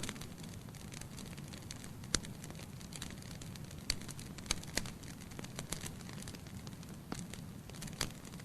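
Wood logs burning in a fireplace: a steady low rumble of flame with scattered sharp crackles and pops, a few louder snaps about two, four and eight seconds in.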